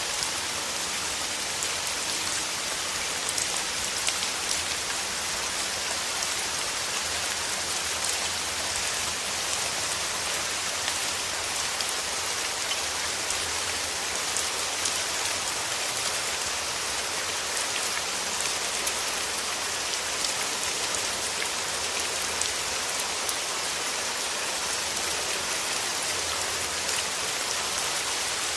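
Steady rain falling, a constant hiss with a dense patter of individual drops striking a surface.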